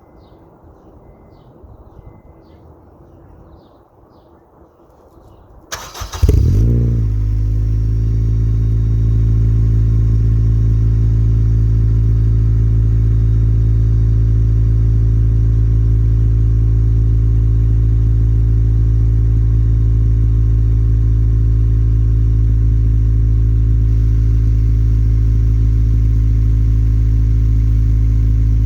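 Acura RSX Type-S 2.0-litre four-cylinder engine breathing through a Tanabe Medalion exhaust, cranked and started about six seconds in. It flares briefly, then settles into a steady idle with a low exhaust drone.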